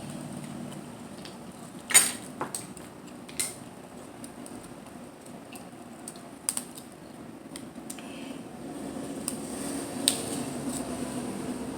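Close-miked eating of mussels and clams: steady chewing and mouth sounds with a few sharp clicks and clinks, the loudest about two seconds in and others near three and a half, six and a half and ten seconds.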